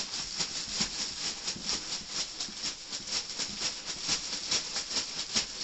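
Packaging rustling and crinkling as shoe boxes are handled and unpacked: a quick, irregular run of crackles, several a second, without a break.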